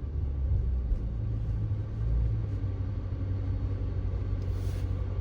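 Chrysler 300 braking to a stop: low, steady engine and road rumble, with no brake squeal heard. The pads have just been refitted and their pins tapped in harder, and the squeal is gone.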